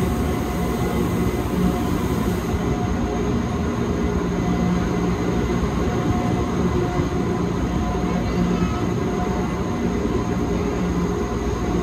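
Wengernalpbahn rack-railway train running downhill through a tunnel, heard from inside the carriage: a steady, even rumble of wheels and rack drive with a low hum and a few faint steady whining tones.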